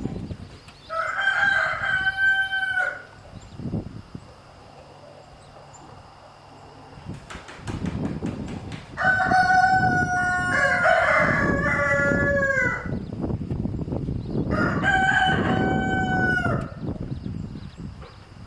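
Roosters crowing: three long crows, the middle one overlapped by a second, lower crow.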